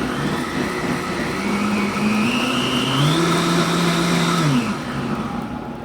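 Countertop blender running on low, puréeing a liquid chili sauce mix of water, vinegar, crushed pineapple and chili flakes. The motor's pitch climbs about a second and a half in, rises again around three seconds, then falls back near the end.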